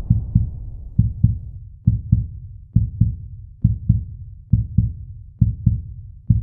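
Heartbeat sound effect: low double thumps, lub-dub, repeating a little under once a second. At the start the low rumble of an explosion is still fading out.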